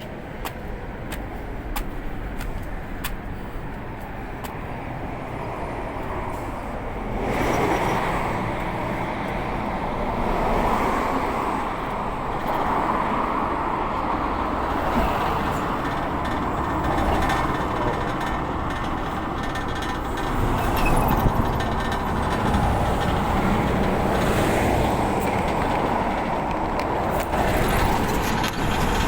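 A city bus's diesel engine running amid steady road traffic noise. It grows louder about a quarter of the way in and stays loud, as heavy vehicles run close by.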